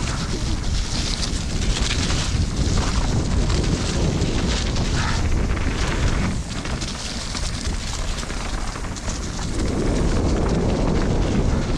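Wind rushing over the microphone of a mountain bike riding down a muddy trail, with the steady noise of the tyres and the rattle of the bike over the ground. It eases for a few seconds in the middle, then picks up again.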